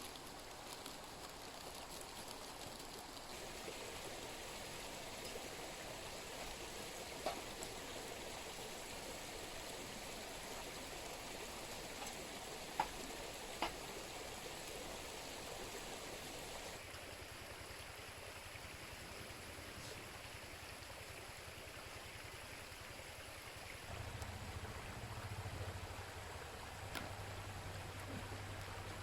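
Mountain stream running steadily, with a few short sharp clicks over it.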